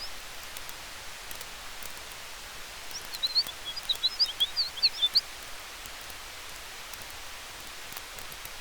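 Campfire crackling with a steady hiss of wind in the trees, faint sharp pops scattered throughout. About three seconds in, a flurry of rapid high chirps runs for around two seconds.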